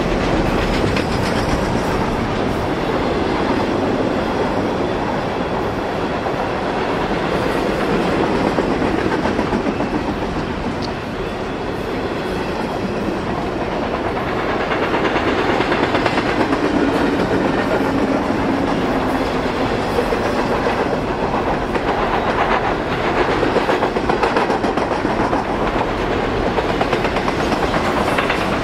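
Double-stack intermodal container train rolling past on well cars: a steady rumble of steel wheels on rail, with the wheels clicking over rail joints.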